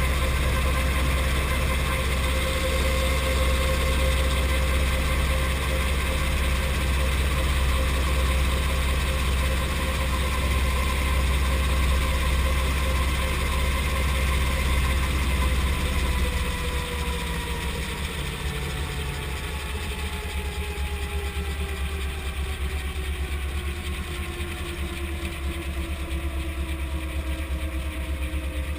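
Brantly B2B helicopter's piston engine and rotor running steadily. About halfway through the sound drops and the pitch slowly falls as the engine and rotor speed come down.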